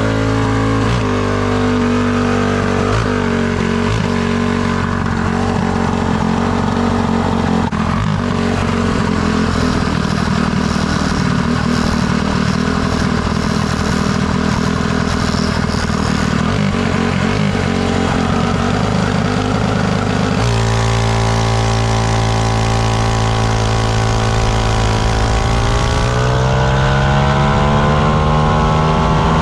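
Small minibike engine running steadily, then revving up with a rising pitch over the last few seconds.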